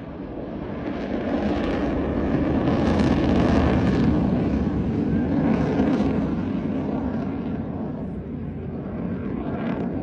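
Jet aircraft flying past at an air show: a broad rushing engine noise that swells to a peak a few seconds in and then fades away.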